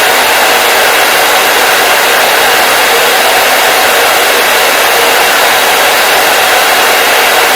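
Hair dryer running steadily: an even, loud airflow hiss with no change in pitch or level.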